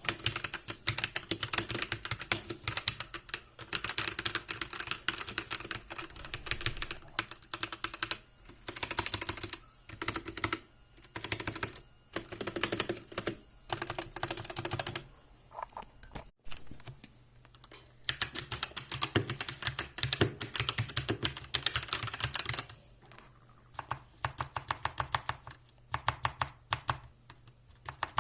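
Typing on a Krux Atax Pro mechanical keyboard: fast runs of sharp key clicks in bursts. There are brief pauses about a third of the way in, around the middle, and again later on.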